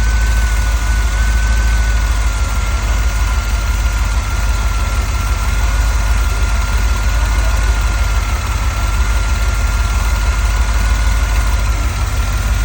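A 1984 car's engine idling steadily, with a thin, steady high-pitched whine over it.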